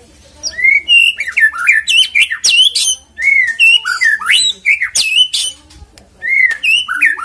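White-rumped shama (murai batu) singing a loud, varied song of clear whistles and sharp, quickly repeated notes, in three phrases with short pauses between them.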